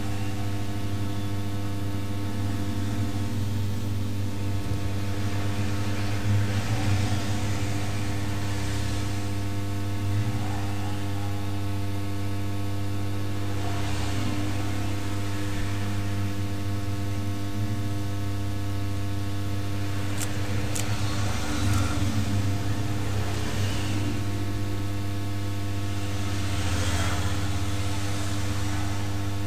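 A steady electrical hum with a stack of evenly spaced overtones, with a few soft hissing swells rising and fading over it.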